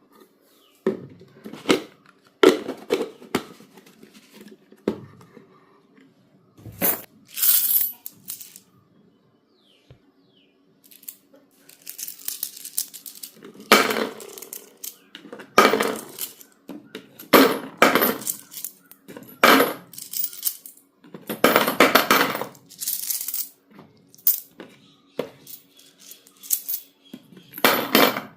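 Plastic packaging and clay containers being handled and unpacked, heard as irregular bursts of crinkling and clinking.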